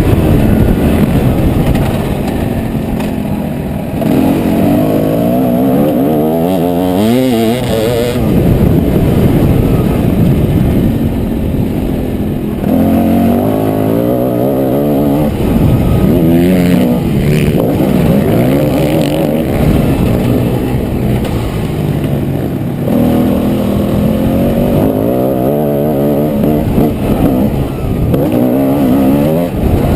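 Motocross bike engine being ridden hard, revving up and falling back over and over, its pitch rising and dropping with the throttle.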